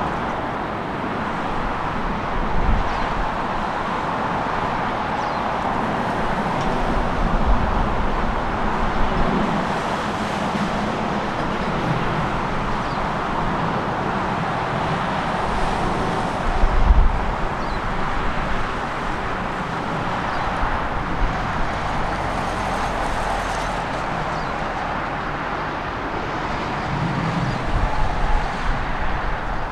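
Steady jet engine noise from a Boeing 777 around the runway, with gusty crosswind buffeting the microphone in a few low thumps.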